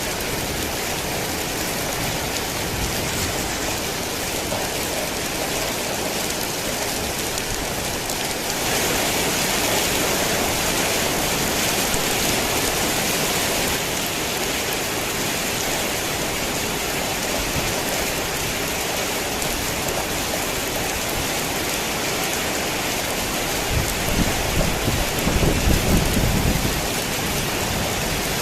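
Heavy rain falling steadily, growing heavier for a few seconds about a third of the way in. A low rumble of thunder comes in near the end.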